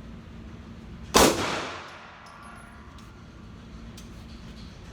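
A single loud pistol shot about a second in, with a short echo trailing off, and a faint click near the end.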